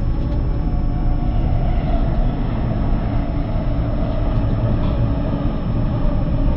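Steady running rumble of a limited-express train heard from inside the carriage, deep and even, with a thin steady high whine above it.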